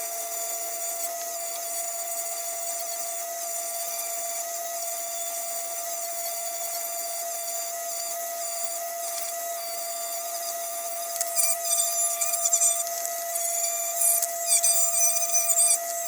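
Small high-speed rotary power tool running with a steady whine, fitted with a fine 600-grit abrasive. From about eleven seconds in it is pressed against the lantern's tin in short scratchy passes, sanding off surface oxidation.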